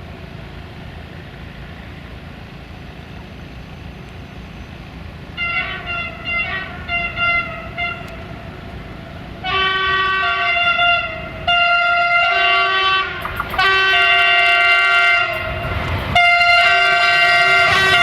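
Softronic class 480 electric freight locomotive's multi-tone horn: a quick run of short toots about five seconds in, then a string of longer, louder chord blasts that continue to the end, over the steady rumble of the train.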